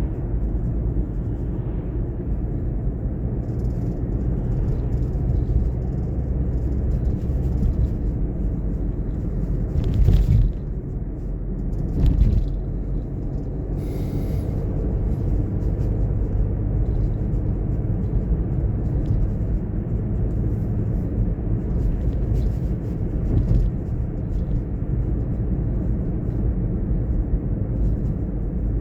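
Car driving on a road: steady low rumble of engine and tyre noise, with two louder knocks about ten and twelve seconds in.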